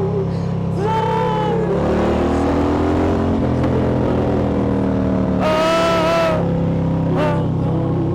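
Harley-Davidson V-twin motorcycle engine running under way, its pitch shifting as the revs change. Short higher-pitched wavering sounds cut in over it about a second in, just before 6 s and near 7 s, the one just before 6 s the loudest.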